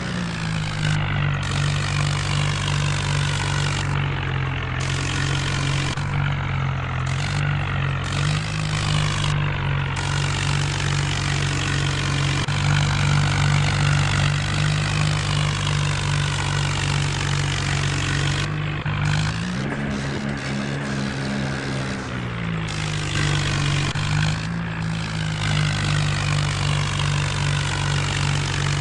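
John Deere tractor's diesel engine running steadily under load while pulling a rotavator. Its pitch rises about two-thirds of the way through, holds for a few seconds, then settles back.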